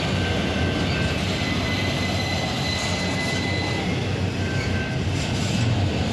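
Freight train of intermodal cars rolling past on steel wheels, a steady rumble, with a faint high wheel squeal for a couple of seconds near the start.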